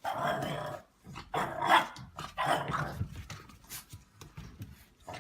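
A dog vocalising in several short bursts, the loudest about a second and a half in.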